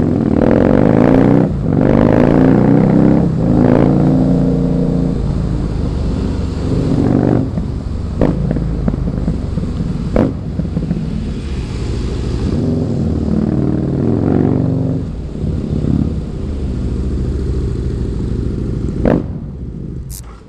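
Husqvarna Nuda 900R's parallel-twin engine accelerating hard through three quick upshifts, its pitch climbing and breaking at each shift. It then runs on at lower revs with a few sharp cracks, and goes quieter just at the end.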